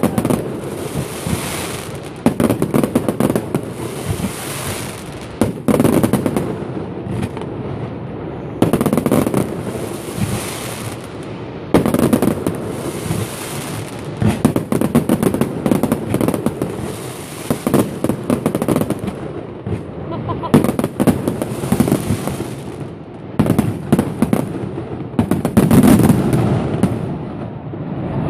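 Aerial fireworks bursting in rapid volleys: many sharp bangs in quick succession with a crackling fizz. The barrages come every second or two, the loudest near the end.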